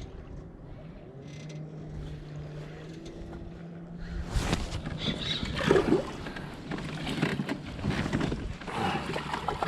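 A faint low steady hum, then from about four seconds in a busy run of splashes and knocks on the water around a kayak.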